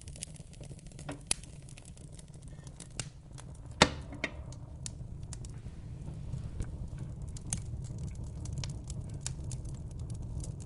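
Fire in a fireplace crackling, with scattered sharp pops over a steady low rumble; one loud pop about four seconds in.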